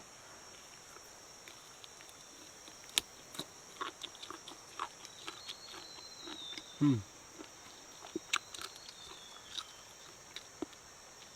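A person biting and chewing charcoal-roasted snake meat with the skin on: scattered soft clicks and small wet mouth sounds, with a short falling "mm" murmur about seven seconds in. A faint steady high hiss runs underneath.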